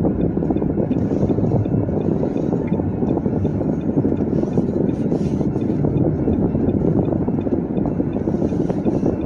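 A car driving through a snowstorm, heard from inside the cabin: a steady low rumble of engine and road.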